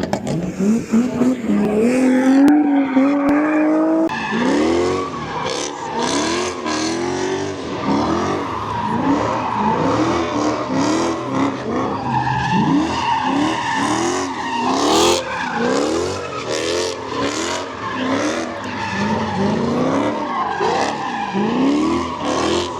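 A car engine climbing in revs for about four seconds, then revving up and dropping back again and again, about once a second, over tyres screeching as the car slides through donuts or a drift.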